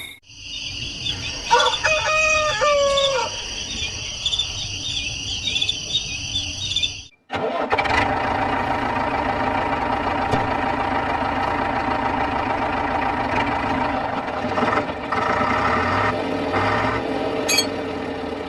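Crickets chirping steadily, with a rooster crowing once about two seconds in. After a sudden cut near the middle, a steady mechanical whirring runs on.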